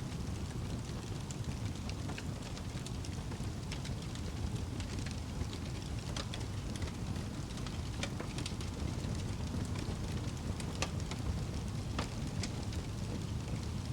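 Wood fire in a fireplace burning with a steady low rumble and irregular sharp crackles and pops scattered throughout.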